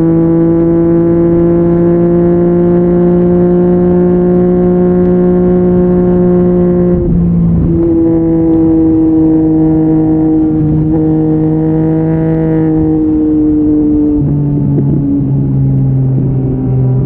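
Yamaha MT-09's three-cylinder engine with an Akrapovic exhaust, under way at steady revs that slowly climb. The note breaks briefly about seven seconds in, then the revs ease off and drop in steps near the end.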